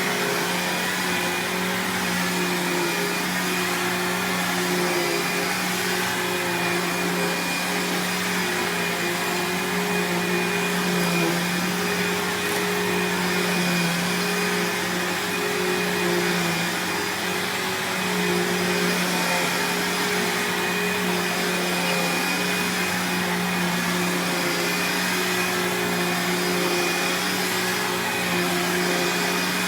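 2003 Bissell Cleanview Powertrak (6590) upright vacuum running steadily, a hum with a thin high whine. Its motor sounds clean and sounds great.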